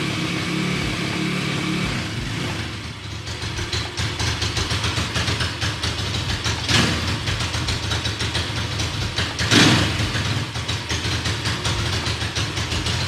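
Apollo RFZ 140cc pit bike's single-cylinder four-stroke engine, all stock, running just after a kick start on choke. It holds a steady idle for about two seconds, then runs unevenly with quick exhaust pulses and two brief louder swells, about seven and ten seconds in.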